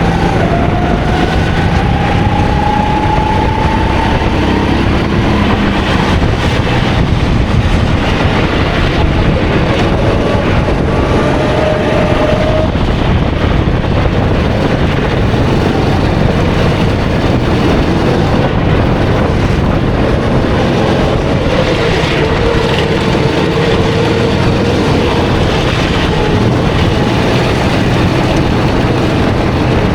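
A 270 cc kart engine running hard, its pitch climbing over the first few seconds, dropping, climbing again and dropping later, under a steady rushing noise.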